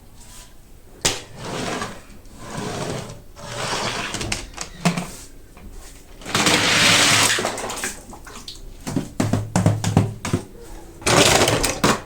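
Toy car blister packaging being handled and opened: repeated bursts of crinkling, rustling noise, each a second or so long, with a quick run of sharp clicks near the end.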